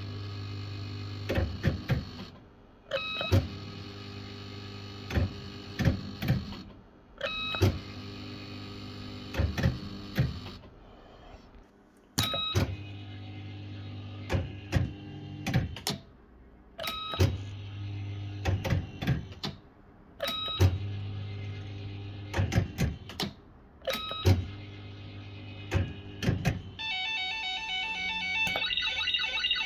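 Bell-Fruit FireCracker fruit machine being played: about seven spins a few seconds apart, each starting with a short beep, then a steady hum and clicks as the reels run and stop. Near the end it plays a fast warbling electronic tune.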